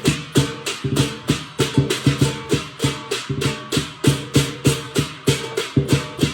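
Lion dance percussion music: drum strokes with clashing cymbals in a steady, quick beat.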